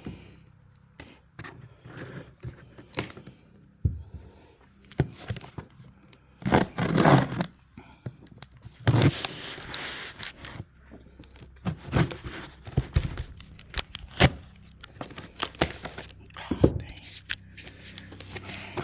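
Shipping box and its packaging being opened and handled: tearing, scraping and crinkling, with irregular knocks as things are moved about.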